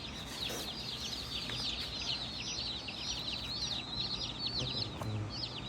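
A crowd of meat-bird (broiler) chicks peeping continuously: many short, high, downward-slurred peeps overlapping, several a second.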